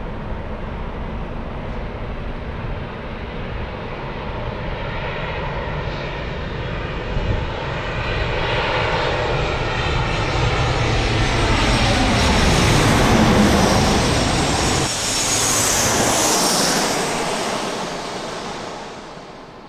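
Boeing 737 jet airliner passing close by on short final. Its engine noise grows for about twelve seconds, peaks with a falling whine as it goes past, then fades away near the end.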